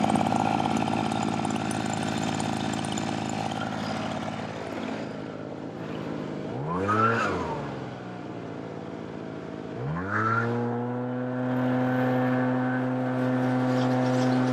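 An engine running steadily, briefly revving up and back down, then revving up again and holding at a steady higher speed.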